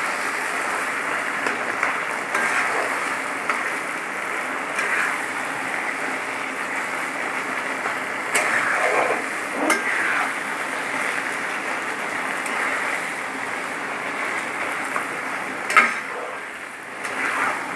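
Taro-leaf greens with fish heads sizzling in oil in a nonstick wok, stirred and scraped with a spatula. The cooking is in its last stage, with the oil separating. A few sharper scrapes come about eight and a half, ten and sixteen seconds in.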